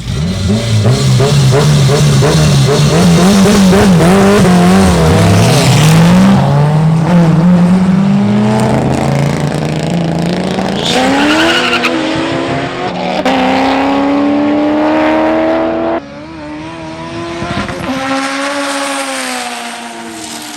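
Street cars racing in a roll race. Engines rise and fall in pitch at rolling speed, then accelerate hard with the pitch climbing steadily. The sound drops suddenly about sixteen seconds in, and another engine climbs in pitch near the end.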